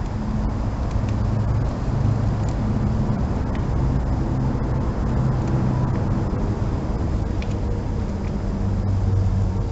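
A running engine: a steady low hum that wavers slightly in pitch, with a few faint clicks.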